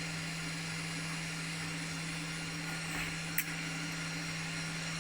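Steady electric motor hum of a dairy milk vat's wash system dosing acid into the hot wash water, with one sharp click about three and a half seconds in.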